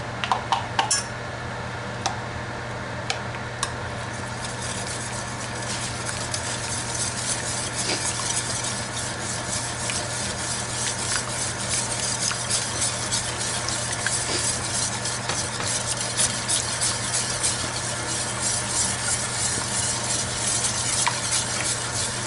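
Sauce being stirred with a utensil in a hot pan, sizzling and crackling steadily and growing a little louder after the first few seconds. A few sharp clinks of utensil on pan come at the start.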